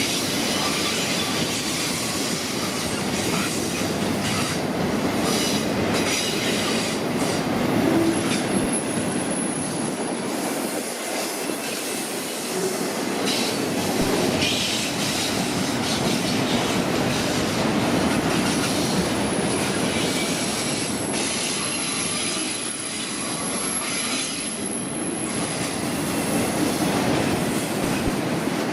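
Freight cars of a manifest train rolling past, with a steady rumble and clatter of steel wheels on the rails.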